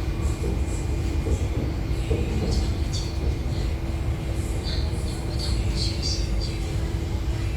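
MTR Tuen Ma line train in motion: a steady rumble of wheels on rail with a constant hum. Several brief high-pitched squeaks and clicks come in the middle.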